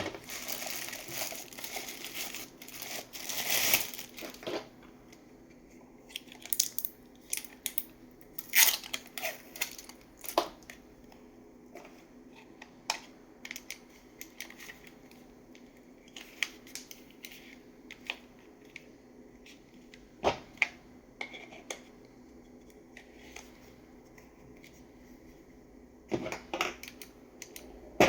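Packaging being handled during an unboxing: a few seconds of plastic and paper crinkling and tearing at the start, then scattered clicks, taps and rustles as the box and its contents are handled.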